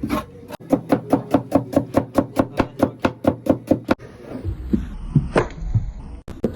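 Knife chopping quickly on a wooden cutting board, an even run of about five strokes a second that stops after about three seconds, followed by a few scattered softer knocks.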